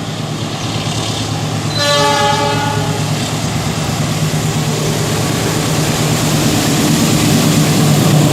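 Train passing at speed, its rumble growing steadily louder as it approaches, with a blast of the train horn about two seconds in.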